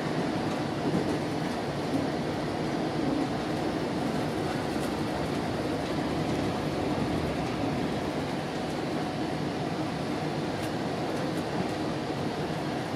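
Steady running noise inside a GO Transit bilevel commuter coach in motion: a continuous rumble of wheels on track.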